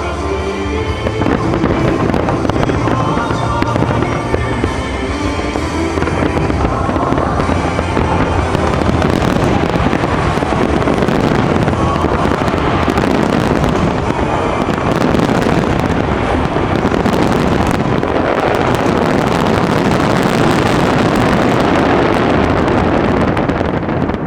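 A dense, continuous barrage of fireworks bursting and crackling over music for a show; the music's tones are heard alone for about a second before the barrage swamps them.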